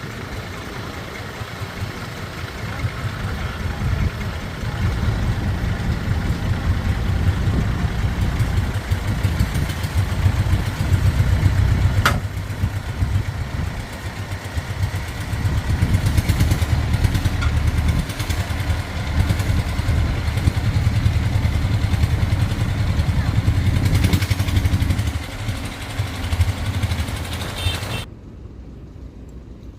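An engine running with a low, steady rumble that swells and eases, with a sharp click about twelve seconds in; the sound drops off suddenly near the end.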